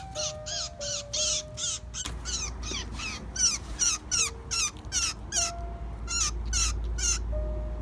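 Baby bird squawking: a rapid run of short, harsh, falling calls, about two or three a second.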